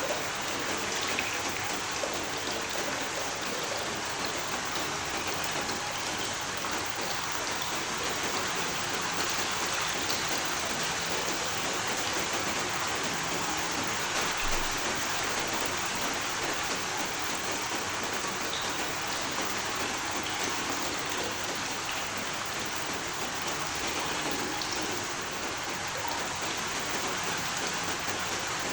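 Steady rain falling, a dense even hiss with scattered individual drops pattering on a surface.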